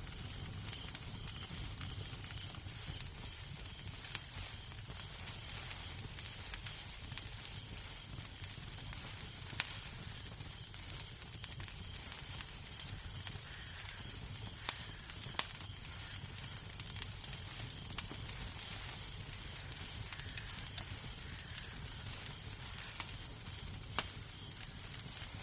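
Wood fire in a fireplace crackling: irregular sharp pops and snaps over a steady hiss and low rumble.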